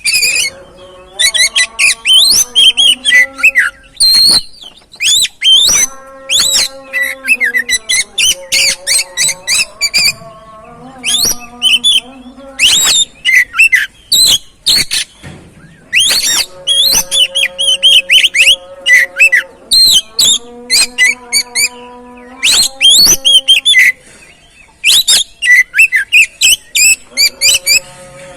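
Oriental magpie-robin (kacer) song played as a lure recording: loud, rapid phrases of sharp whistles and chirps that repeat with short pauses. Held lower tones run underneath.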